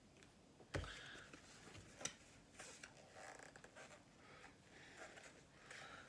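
Quiet handling of hockey card packs and cards: a soft knock about a second in, a sharp click a second later, then faint rustling and scraping.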